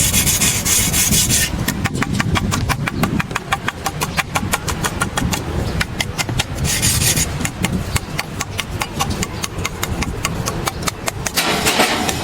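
Sawdust charcoal briquettes clattering and rolling on a hard floor: a fast, unbroken run of sharp clicks over a low rumble, with brighter scraping near the start, in the middle and near the end. It is a sound test of briquette quality.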